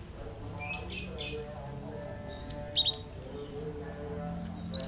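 Cinereous tit (gelatik batu) calling: three quick high chattery bursts, then a pair of sharp whistled notes that hook downward in pitch, and a burst of chatter again near the end.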